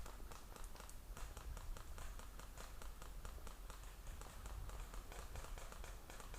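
Footsteps of a person walking or jogging over rough ground: a run of short, irregular crunches over a low rumble of wind on the microphone.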